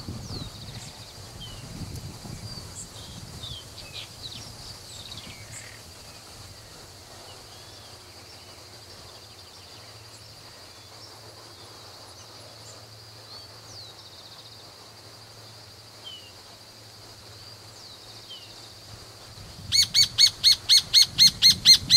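Outdoor ambience: a steady high-pitched drone with scattered faint bird chirps. Near the end a bird breaks in with a loud, rapid series of harsh calls, about five or six a second.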